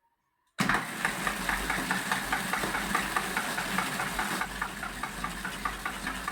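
A homemade electric bike's power steering motor starts abruptly about half a second in and runs steadily, with a regular knock about four times a second.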